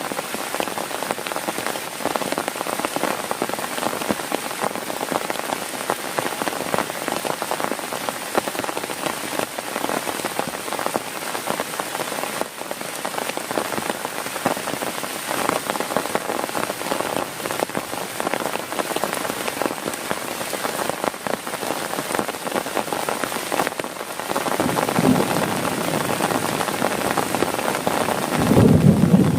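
Heavy rain drumming steadily on a tent, a dense patter of drops. Near the end a low rumble swells up under the rain.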